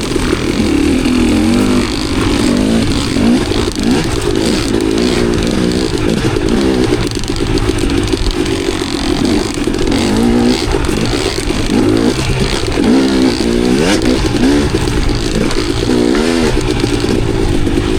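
KTM enduro dirt bike's engine revving up and down repeatedly as it is ridden, with rattling and clatter from the bike over rough ground.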